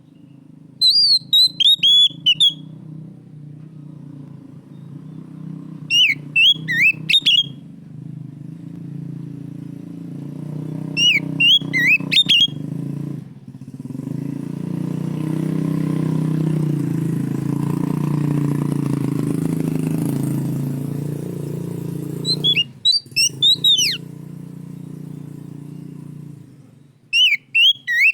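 Oriental magpie-robin singing loud, rapid phrases of rising and falling whistled notes, five bursts a few seconds apart. A low vehicle engine drone runs underneath, swelling in the middle and fading toward the end.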